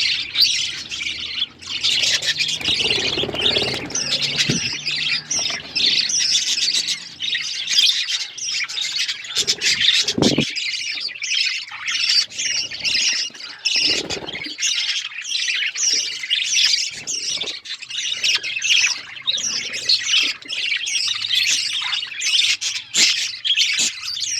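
A flock of budgerigars chirping and chattering without pause, with some sharper squawks mixed in.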